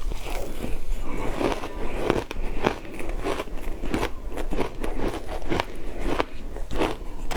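Ice being bitten and chewed close to the microphone: frozen matcha ice cracking and crunching between the teeth, about two crunches a second.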